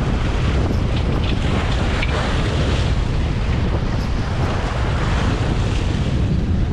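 Strong wind buffeting the microphone with a steady low rumble, over sea waves washing against the shore.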